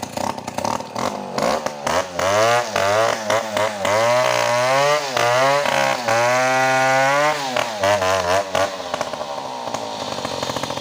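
Two-stroke chainsaw engine revved hard several times, its pitch climbing and dipping again and again. It then drops back to a quieter, steadier running sound near the end.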